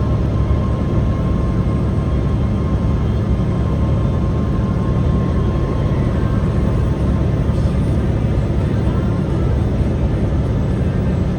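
A truck driving, with a steady, unbroken low engine and road rumble.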